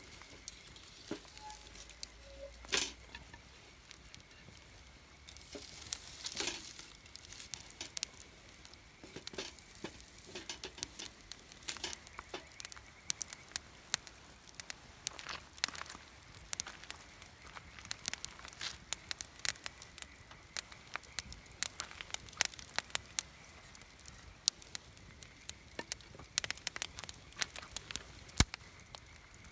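Wood campfire crackling and popping, with irregular sharp snaps throughout and a faint hiss under them.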